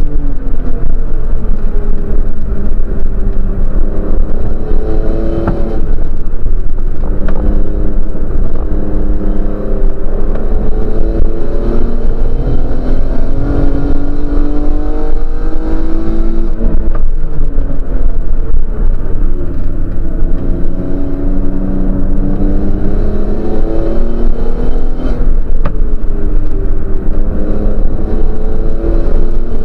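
Race car engine heard from inside the cabin, under hard acceleration: its note climbs in pitch over several seconds, then drops at each gear change, several times. A steady low rumble of road and drivetrain noise runs beneath it.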